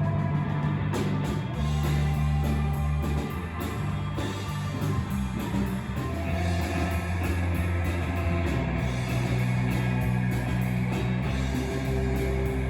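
A live surf-rock band playing: electric guitar over a steady bass line and drum kit.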